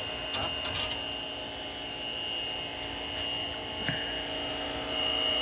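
A steady machine whine with a constant high tone that holds without change.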